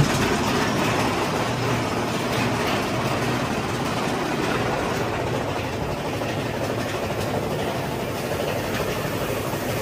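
Mine-train roller coaster running on its track: a steady rumble and rattle.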